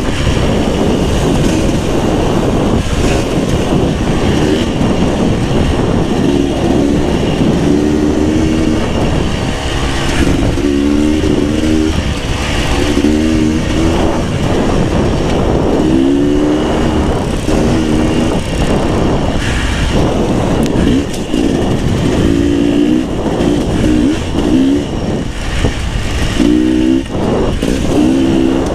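Beta 300 RR two-stroke enduro dirt bike engine revving up and down with the throttle while riding, its pitch rising and dropping again every second or two, over a steady rush of noise.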